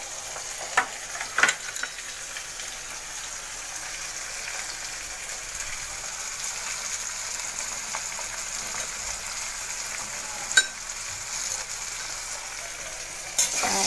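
Chopped onion, ginger and garlic sizzling in hot oil in a steel kadai: a steady frying hiss. Four sharp clicks cut through it, two in the first second and a half and two more near the end.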